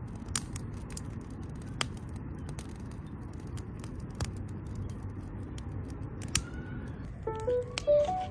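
Scattered sharp clicks and snaps over a steady low rumble. Near the end a few stepped notes begin as music comes in.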